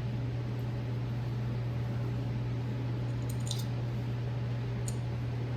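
A steady low hum throughout, with a few faint light clicks about three and a half and five seconds in, as small engine parts such as the pull cord assembly are handled.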